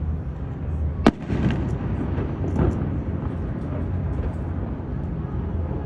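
Aerial fireworks shells bursting: one sharp bang about a second in, followed by a scatter of smaller crackles, over a steady low rumble.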